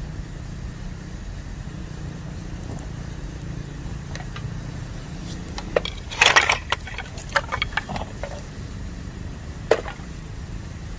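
Bamboo burning in a campfire, crackling and popping: a burst of sharp pops about six seconds in, a few more after it and one more near the end, over a steady low rumble.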